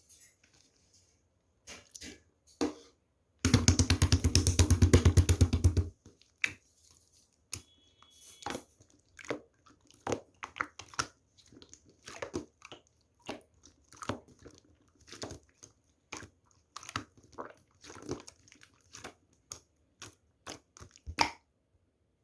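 Small objects being handled at close range: scattered clicks and taps, with a loud, fast rattling for about two seconds a few seconds in.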